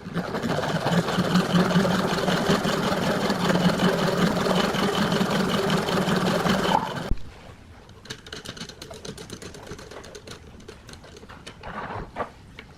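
An electric power tool motor runs steadily for about seven seconds, then cuts off, followed by light clicks and clinks of handling.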